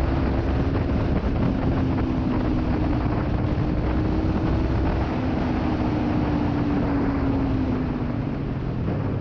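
Kawasaki Ninja 300's parallel-twin engine through a Delkevic aftermarket exhaust, running steadily at highway speed over a dense rush of wind and road noise. The engine note sinks slightly lower near the end.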